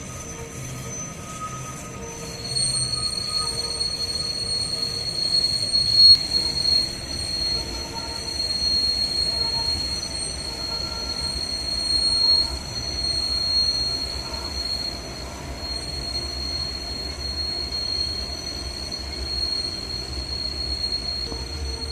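Bernina Railway train's steel wheels squealing on the tight curve of the spiral viaduct. A steady high-pitched squeal sets in a couple of seconds in and carries on over the low rumble of the train rolling by.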